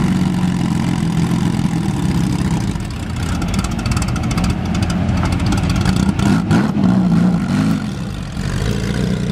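Lamborghini Countach V12 running at low revs through its quad exhaust pipes as the car creeps forward, with a brief rise and fall in engine pitch about six and a half seconds in.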